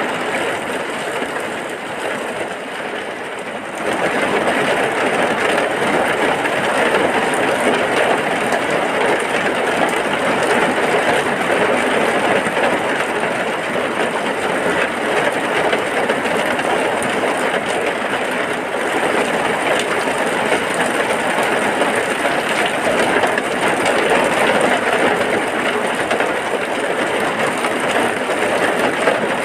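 Heavy rain falling steadily, getting louder about four seconds in.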